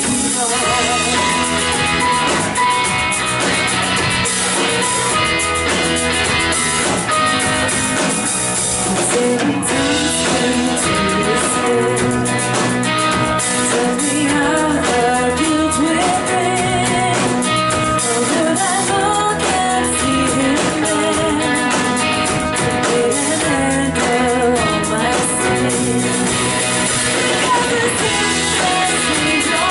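Live worship band music: guitar and drum kit playing steadily, with voices singing over it.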